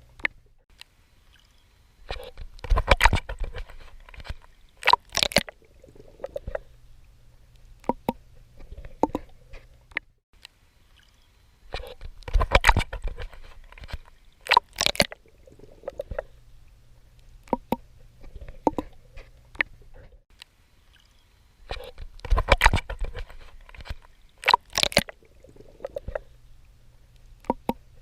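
Water splashing and sloshing from a swimmer's strokes: a cluster of splashes, then a second sharp splash about two seconds later, repeating about every ten seconds, with softer water ticks and lapping between.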